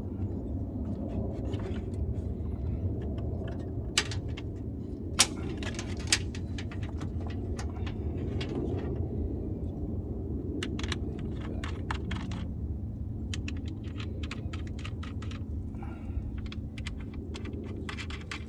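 Sharp metallic clinks and clicks, the loudest three coming about four, five and six seconds in, over a steady low rumble.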